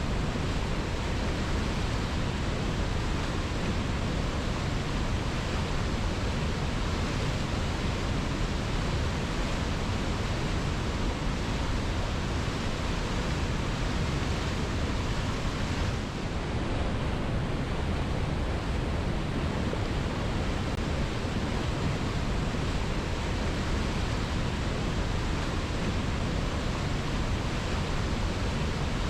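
Waterfall pouring onto rocks: a steady, unbroken rush of falling water, with a brief slight dip in the hiss just over halfway through.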